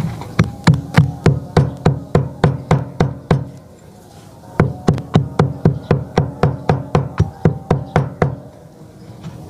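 Sharp, evenly spaced knocks, about four a second, in two runs of roughly three and a half seconds with a short pause between.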